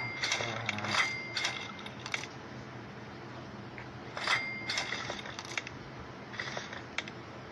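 Metal tools and suspension parts clinking: scattered sharp metallic clicks, some ringing briefly, around the start, again from about four to five and a half seconds in, and once near the end.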